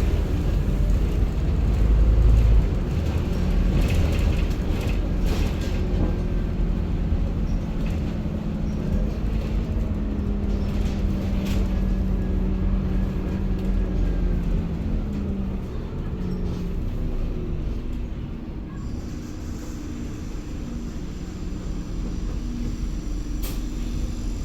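Diesel engine of a Scania N230UD double-decker bus running with a steady drone and deep rumble. The drone drops in pitch about 15 seconds in, and the sound eases somewhat after that.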